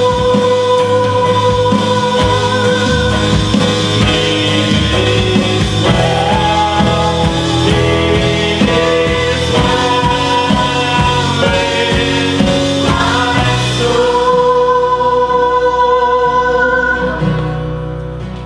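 Live worship band playing a slow worship song, with singing. The drums drop out about two-thirds of the way through, leaving sustained chords and a held note that fade down near the end.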